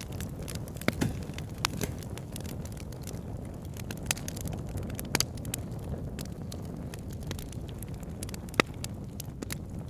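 Wood fire burning in a fireplace: a steady low rumble of flames with irregular crackles and sharp pops, the loudest pop near the end.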